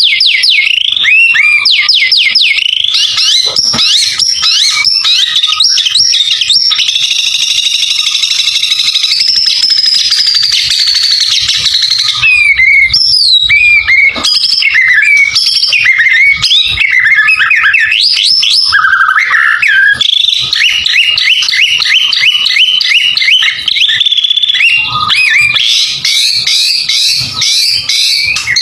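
White-rumped shama (murai batu) singing loudly and without pause: a varied run of clear whistles, sliding notes and rapid repeated phrases, full of 'isian', notes borrowed from other birds' songs.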